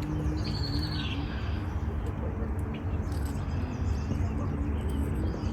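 A bird's short high whistled call about half a second in, falling in pitch at its end, over a steady low rumble.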